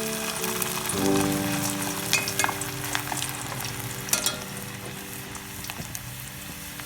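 Potato fries sizzling in hot oil, with scattered crackling pops over a steady hiss. Background music plays under it.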